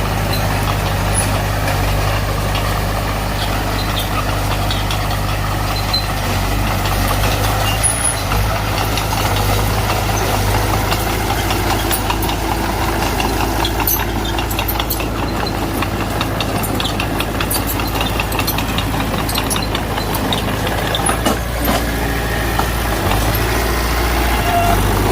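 Heavy diesel engine of earthmoving machinery running steadily, with scattered metallic clicks and clanks over it.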